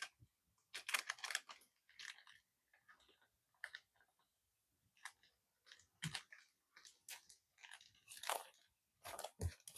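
Irregular short crunching and crackling noises, about a dozen in a row with brief silent gaps between them.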